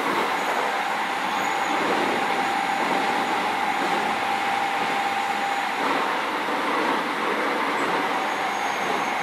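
Inside a Keio 7000 series electric train car running at speed: a steady rumble of wheels and running gear on the track, with a faint steady tone over it.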